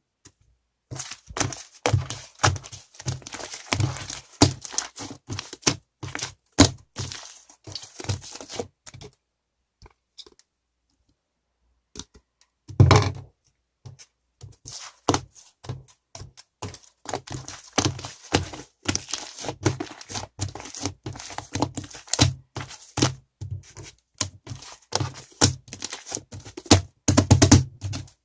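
A rapid, irregular run of sharp clicks, taps and knocks, with a pause of about three seconds near the middle and a louder knock just after it.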